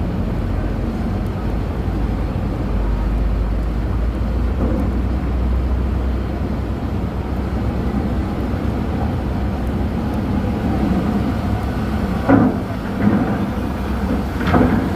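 Heavy diesel engine running, a steady low rumble, with two short louder surges about twelve seconds in and near the end.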